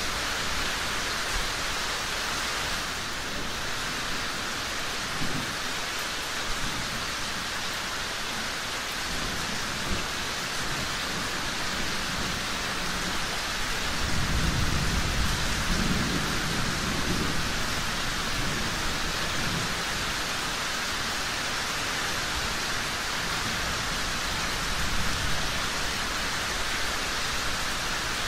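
Steady rain falling, with a low thunder rumble that swells for a few seconds about halfway through.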